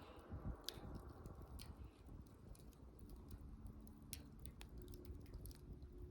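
Wood campfire crackling faintly, with scattered sharp pops over the low rumble of the burning wood.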